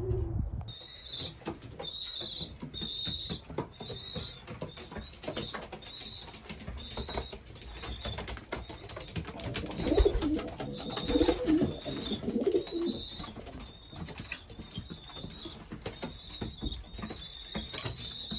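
Racing pigeons in a loft: wings flapping and clattering as birds land and move about, with pigeon cooing that is loudest about ten to thirteen seconds in. A high chirp repeats every half second to a second throughout.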